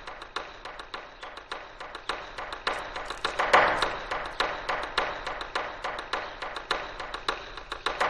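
Background score of quick percussive ticks, about five a second, with a louder swell about three and a half seconds in.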